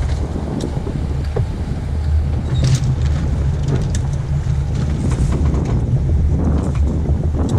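Wind buffeting the microphone aboard a racing sloop under sail: a steady, loud low rumble, with faint splashes and rushing water along the hull.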